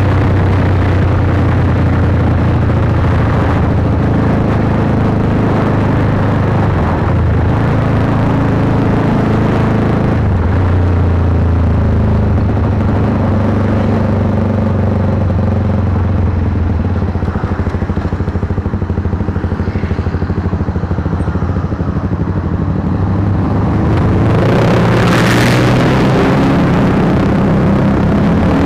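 Honda CBR150R's single-cylinder engine running through an aftermarket Akrapovic exhaust while being ridden, its note rising and falling with the throttle. A brief rushing noise comes about three-quarters of the way through.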